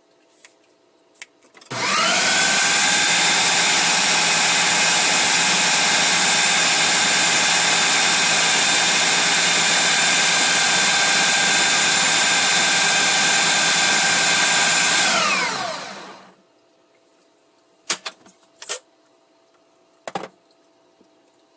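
Food processor motor grinding raw chicken breast with shallot and seasoning: it starts about two seconds in, runs steadily for about thirteen seconds, then winds down, falling in pitch. A few short clicks follow near the end.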